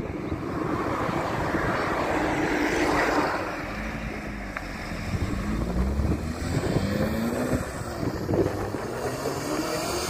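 Open-wheeled sports car accelerating away hard, its engine note climbing through several gears and dropping back at each upshift. Wind buffets the microphone.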